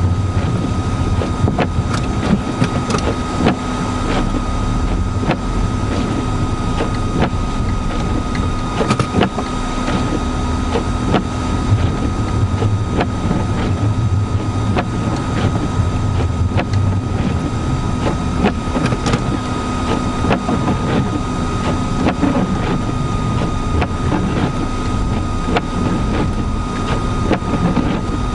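Steady vehicle cabin noise in a blizzard: low engine and road rumble with a constant thin whine, and frequent irregular ticks.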